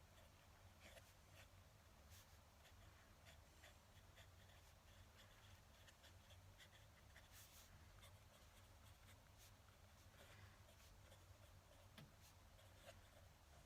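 Fountain pen nib scratching faintly on paper in short, irregular strokes, over a faint steady low hum.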